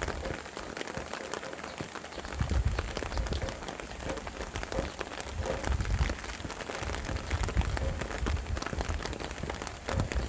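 Rain falling steadily, with many separate close drops ticking, while gusts of wind buffet the microphone in low rumbles that come and go every second or two.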